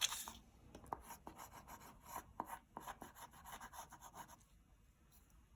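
Blue crayon rubbing lightly over paper in short, irregular strokes, colouring the edge of a paper circle; the strokes die away in the last second or so.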